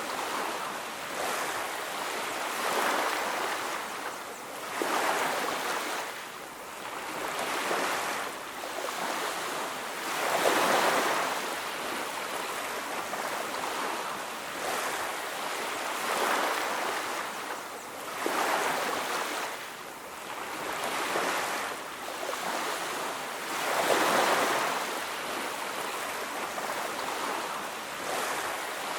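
Ocean surf: waves washing onto a beach, the noise swelling and falling away every few seconds, with a bigger wave about ten seconds in and another near the end.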